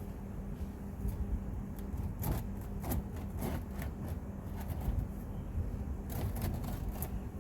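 Scattered light clicks and knocks, a few each second at irregular times, over a steady low hum.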